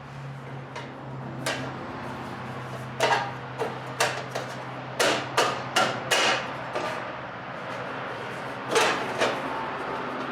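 Hammer tapping a tight-fitting muffler and exhaust part into place on a small engine: about a dozen sharp knocks, most in a quick run in the middle and two more near the end.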